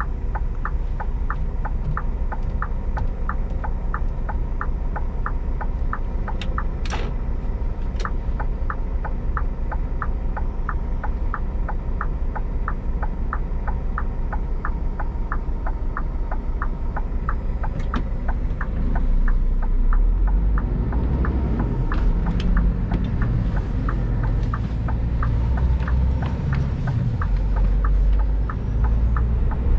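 Scania G410 truck's diesel engine running at low speed, with a regular ticking of a few clicks a second over it, like a turn-signal indicator, for the first two-thirds. About two-thirds of the way in the engine grows louder and more uneven as it pulls under load.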